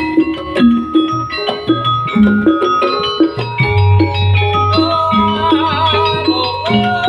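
Javanese gamelan accompaniment for a jaranan dance: a quick run of struck metallophone notes with drum strokes. About halfway through, a low steady hum and a wavering held melody line join in.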